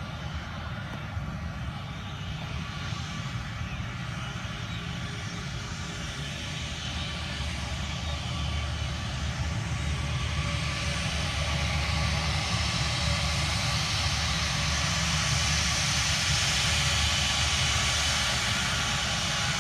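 Jet airliner engines, a low rumble with a rushing hiss that grows steadily louder as the plane approaches.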